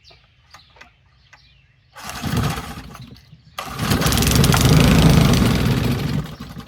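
Old Briggs & Stratton small engine being pull-started with a hand choke: a short burst about two seconds in, then a louder, steadier run of about three seconds that dies away. It will not keep running, which the owner suspects is a carburettor needle valve not opened far enough.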